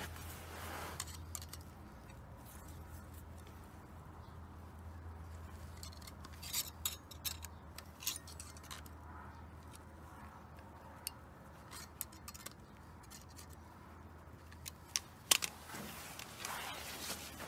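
Steel brake-pad anti-rattle clip being bent and handled, with scattered sharp metallic clicks and clinks in small clusters, the loudest about fifteen seconds in. A steady low hum runs underneath.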